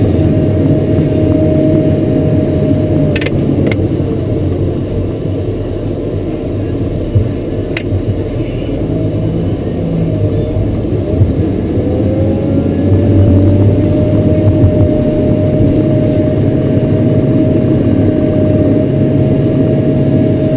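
Caterpillar 140K motor grader's diesel engine running under working throttle, heard from the cab; its pitch sags about three seconds in and climbs back up around twelve seconds. A few sharp clicks sound in the first eight seconds.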